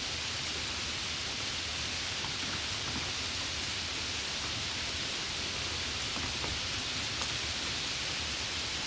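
Heavy rain pouring down in a steady, even hiss, with a few single drops ticking out of it, one a little louder about seven seconds in.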